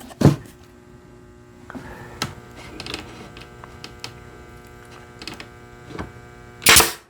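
18-gauge brad nailer shooting brads: one sharp crack just after the start and a second, slightly longer shot near the end, with a few light taps and a steady hum between.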